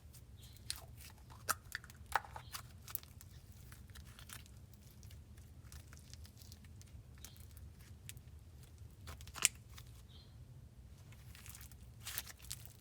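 Small handling noises: scattered soft clicks and crinkles, one sharper click about nine and a half seconds in, over a low steady hum.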